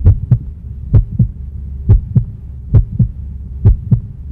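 Heartbeat sound effect: five double thumps in a lub-dub pattern, one pair a little under every second, over a steady low hum.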